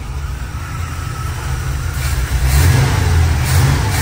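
GM Performance crate 350 small-block V8 running on its fast idle while still cold. From about halfway through it is revved by hand at the carburetor throttle and picks up quickly and responsively, in a couple of swells.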